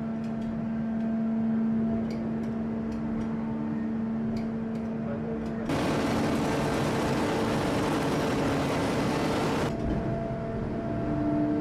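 Hydraulic forging press running: a steady machine hum with faint ticks, then a loud rushing hiss for about four seconds starting a little past halfway before the hum returns.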